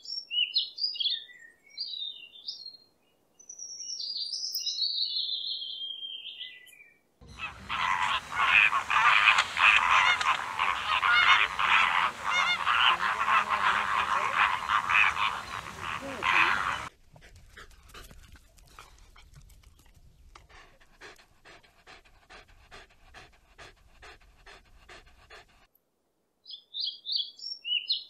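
European robin singing in short high phrases. About seven seconds in, a flock of flamingos starts honking and gabbling loudly and densely for about ten seconds, then cuts off to faint, evenly repeating sounds. The robin's song returns near the end.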